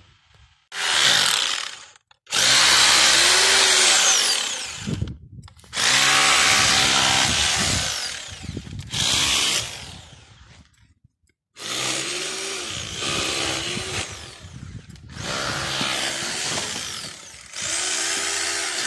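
Electric power drill running in about seven separate bursts of one to three seconds each, its motor pitch rising and falling with each trigger pull, consistent with drilling holes into the concrete foundation for reinforcement.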